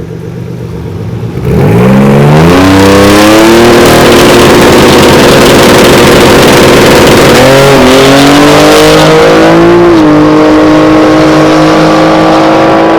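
Twin-turbo Nissan 300ZX V6 going from idle to full throttle about a second and a half in, climbing fast in revs and then holding high. The revs dip and climb again twice, a few seconds apart, like gear changes on a hard acceleration run.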